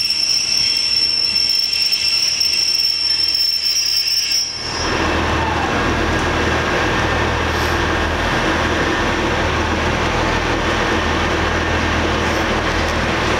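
Train wheels squealing on the rails, a steady high-pitched screech that cuts off suddenly about four and a half seconds in, giving way to a steady rumble with a low hum from a train at the station.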